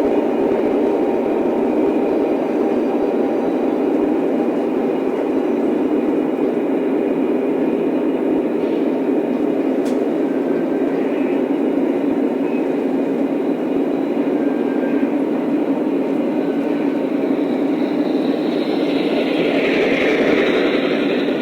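Lionel O-scale model train running on track: a steady, continuous rolling rumble of wheels and motor, with a brighter rushing swell near the end.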